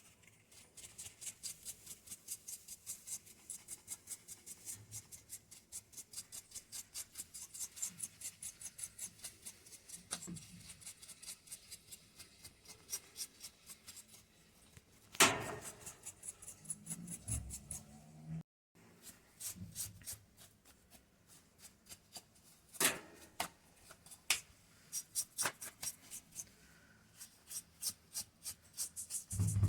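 Hand-tool work on a washing machine: a long run of quick, even clicks, about three a second, then a few sharp knocks and clicks.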